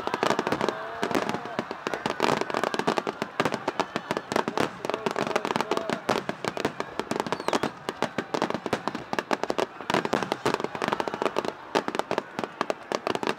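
Finale barrage of aerial firework shells: a dense, unbroken run of bangs and crackles, many each second, as shells burst on top of one another.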